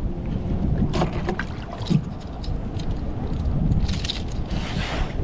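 Wind buffeting the microphone, with scattered knocks and a splash of water near the end as a hooked bass thrashes beside the kayak during landing.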